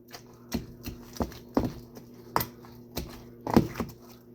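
A utensil tapping and knocking irregularly against a bowl while garlic butter is mixed, over a faint steady hum.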